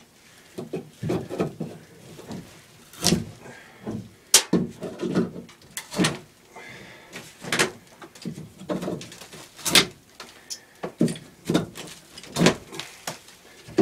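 Several sharp knocks and clunks at irregular intervals, with lighter clatter between them: hand work with tools and fittings.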